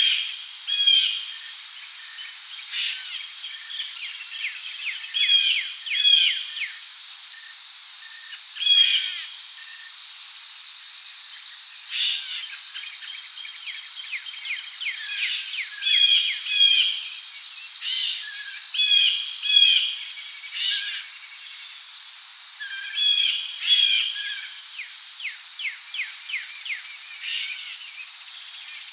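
Rainforest ambience: a steady high insect drone of crickets, with birds calling in short chirps and whistled phrases every second or two.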